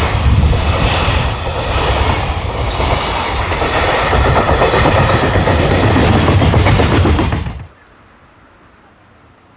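A train running through the station at speed, its wheels clattering over the rail joints with a heavy rumble. The sound stops suddenly near the end, leaving only faint background hum.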